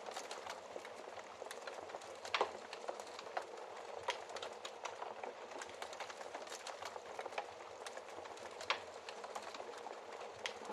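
Wood fire crackling in a fireplace: a steady hiss with frequent small snaps and pops, two louder pops about two and a half seconds in and again about nine seconds in.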